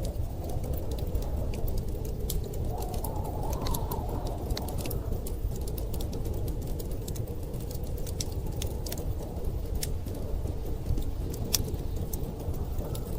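Wood fire crackling, with many sharp pops scattered throughout, over the steady low rush of storm wind. A gust rises briefly about three seconds in.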